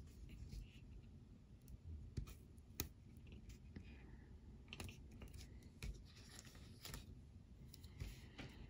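Near silence with a few faint, scattered clicks and rustles of paper, from peeling and pressing planner stickers.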